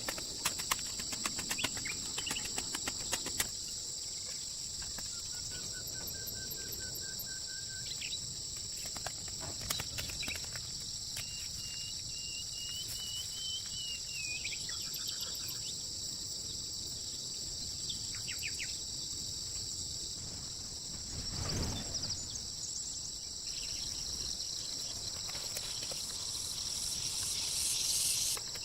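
Steady high-pitched chorus of insects, with a few short bird calls and some light clicks in the first few seconds. A brief rush of noise comes about two-thirds of the way through.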